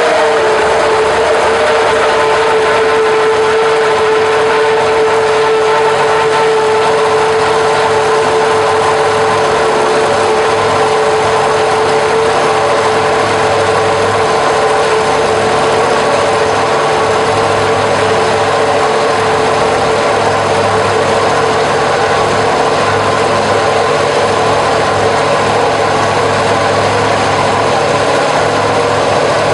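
Ferrari Formula One car engine idling loud and steady at one high, even pitch that wavers only slightly.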